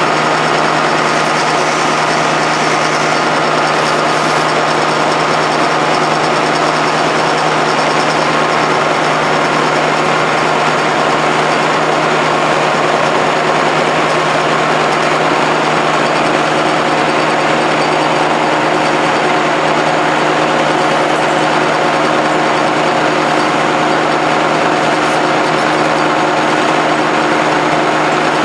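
Heckert FSS315 knee-type milling machine running under test: its motor and gearbox make a steady, unchanging hum with several steady tones.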